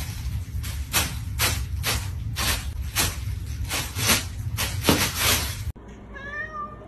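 Crinkly white wrapping crackling under a cat's front paws as it presses and shifts on it, about three crackles a second, over a low steady hum. After a cut near the end, a cat gives a brief meow.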